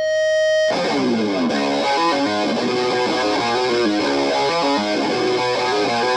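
Distorted electric guitar playing a riff on its own: one held note for under a second, then a fast run of changing notes.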